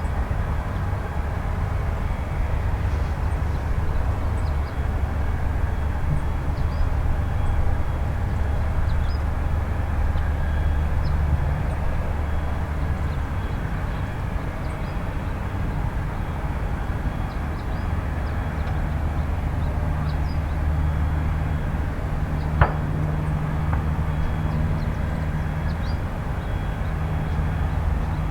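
Airbus A320 jet engines running at low power: a steady low rumble with a faint high whine over it. A single sharp click about two-thirds of the way through.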